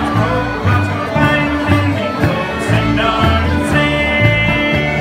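Bluegrass band playing, with plucked bass notes keeping a steady beat about twice a second under guitar and fiddle.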